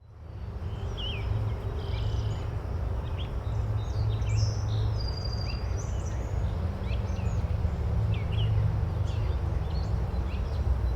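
Nature-sounds ambience: several birds chirping and singing, with short quick calls throughout, over a steady low rumble. The sound fades in at the start.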